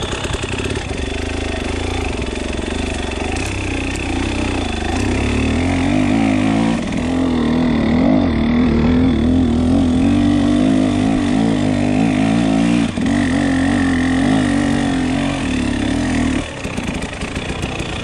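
KTM 300 EXC two-stroke enduro engine running at low to middling revs under constant throttle work, its note wavering up and down as the bike is ridden slowly over rough forest ground, held in one gear. The note drops back a little near the end.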